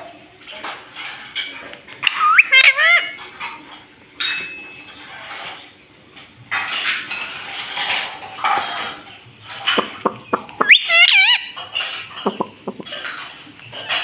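Pet ring-necked parakeet giving short squawking calls twice, about two seconds in and again near eleven seconds. Between the calls come sharp clinks and knocks, like metal or dishware being tapped.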